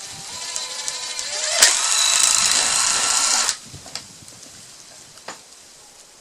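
Electric drill with a 3/16-inch bit spinning up with a slightly rising whine, then cutting into a PVC pipe fitting for about two seconds, enlarging the hole to leave a little play. The drill stops abruptly, and a single click follows a couple of seconds later.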